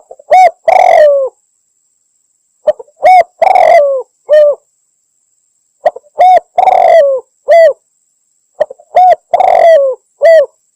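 Spotted dove (tekukur) cooing: four repeated phrases about three seconds apart, each a short coo, a longer drawn-out coo and a short final coo. It is a lure call, the female's call to draw in a male dove.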